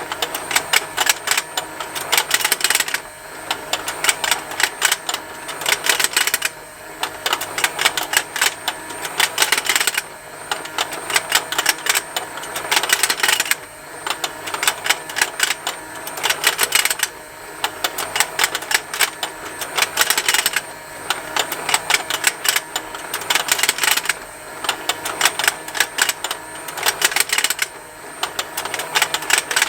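Plastic fishing game toy running: its small motor turns the rotating pond with a continuous rapid plastic ticking, while the fish's mouths snap open and shut. Louder bursts of clicking come back about every three and a half seconds.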